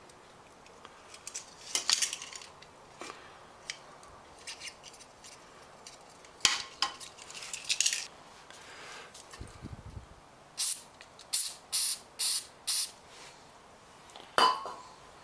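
Small metal carburettor parts and tools clinking and tapping as they are handled and set down, with a run of five short hissy bursts about half a second apart, then a sharp knock near the end.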